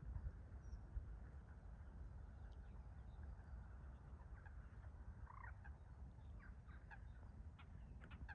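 Faint bird calls, a cluster of short notes from about halfway in, over a low steady rumble.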